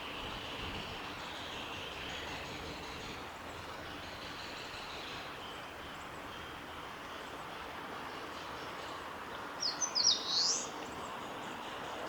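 Eastern crowned warbler singing one short, quick phrase of high sweeping notes about ten seconds in, over a steady background hiss.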